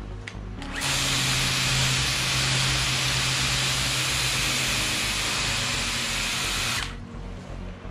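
Worx Hydroshot 40V cordless pressure cleaner spraying for about six seconds: a steady hiss of the water jet over the low hum of its pump motor, starting about a second in and cutting off sharply near the end.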